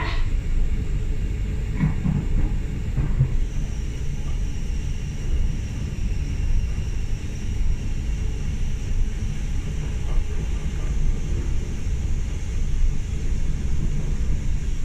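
Hamburg S-Bahn class 472 electric train running, heard from inside the carriage: a steady low rumble of the wheels on the track. A faint, high, steady whine comes in a few seconds in and holds.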